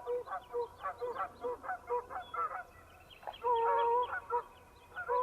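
A flock of geese honking in flight: many short overlapping honks, several a second, with one longer drawn-out honk a little past the middle.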